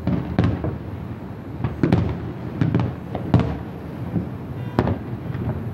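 Aerial fireworks shells bursting in a rapid string of sharp bangs and booms, over a steady low rumble.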